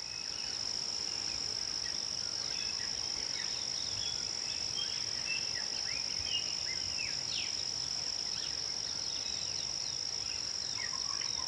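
A steady high-pitched insect drone, with birds chattering over it in many short chirps and quick falling notes.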